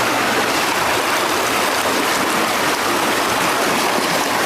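River water rushing steadily in a strong current.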